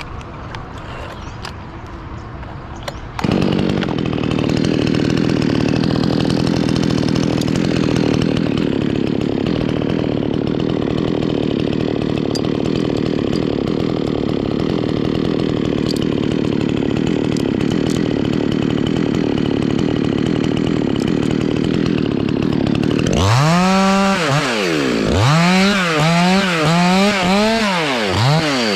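Petrol chainsaw idling, then opened up about three seconds in and held at steady high speed for about twenty seconds, as when cutting through wood. Near the end it is revved up and down several times.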